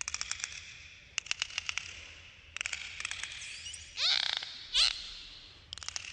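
Dolphins clicking and squealing: several quick trains of clicks, a falling whistle about four seconds in, and a loud short squeal just before the fifth second.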